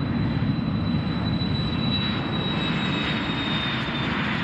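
Cessna Citation Excel/XLS business jet's twin turbofans at takeoff power: a steady rumble with a high whine that drifts slightly lower in pitch.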